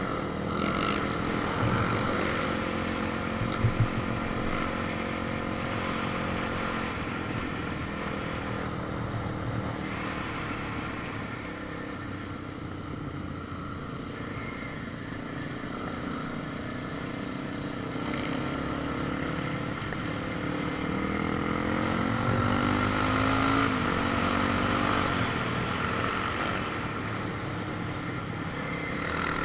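Motor vehicle engine running steadily, its pitch climbing and dropping a few times as it changes speed, most clearly past the middle.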